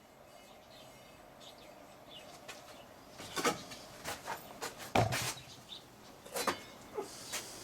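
A few short, irregular knocks and clatters, like objects being handled in a workshop. They start about three seconds in, after low background, and the loudest comes about five seconds in.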